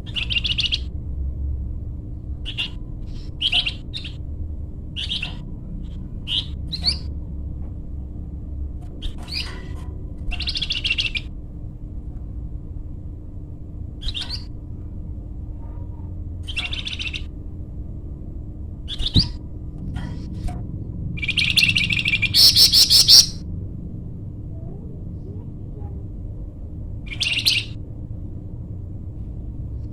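A flamboyan songbird singing in short, separate chirps and whistled notes a second or two apart, with a longer, louder burst of rapid notes about two-thirds of the way in. A steady low rumble and faint hum run underneath.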